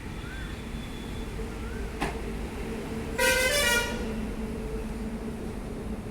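A vehicle horn sounds once, a short honk of about half a second, over a steady low rumble of road traffic and engine noise. A single sharp click comes about a second before the honk.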